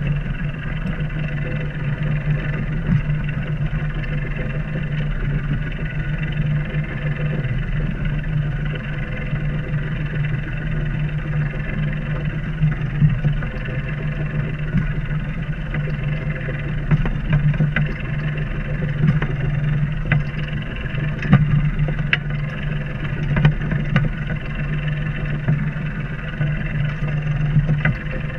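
A sailboat's inboard engine running at a steady speed while motoring, a constant low drone with a few faint ticks over it.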